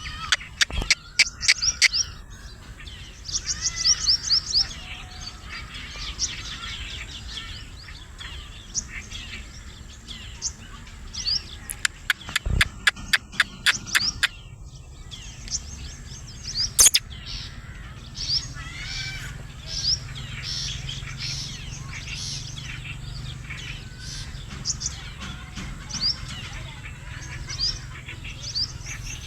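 Black francolin calling: two quick runs of harsh, grating notes, near the start and about twelve seconds in. Many small birds chirp throughout.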